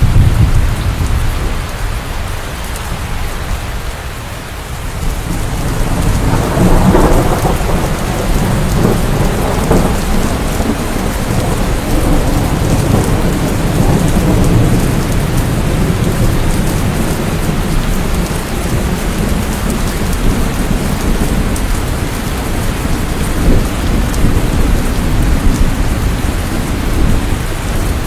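Steady heavy rain falling, with a roll of thunder that swells about six seconds in and rumbles on for several seconds.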